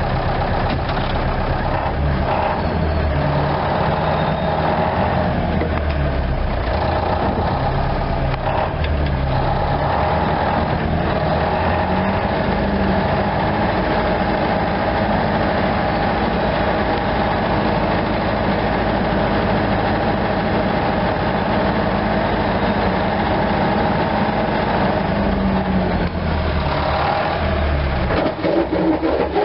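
Tractor engine running steadily, its pitch and level shifting now and then as it is driven. Near the end a quick, uneven rhythmic clatter comes in.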